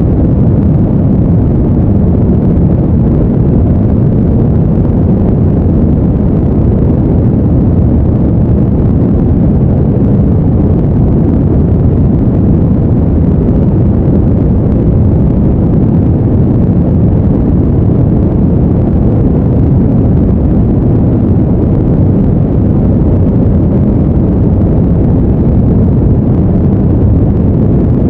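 Steady, unchanging low-pitched noise, a deep even rumble with little hiss, like brown noise.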